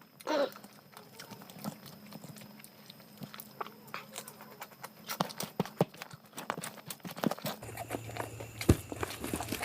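Close-up mouth sounds of a person eating biryani: irregular wet clicks and lip smacks of chewing, with one sharper click near the end.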